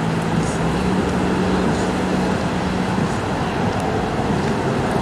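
Steady drone of an aircraft engine over a broad rushing background, with its low hum fading out about three seconds in.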